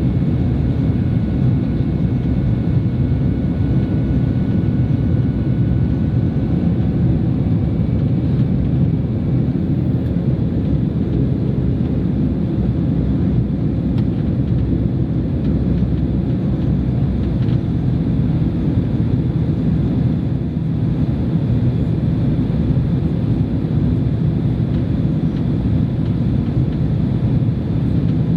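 Steady low rumble of a Boeing 767-300's cabin in flight: engine and airflow noise, with a faint whine that fades out about eight seconds in.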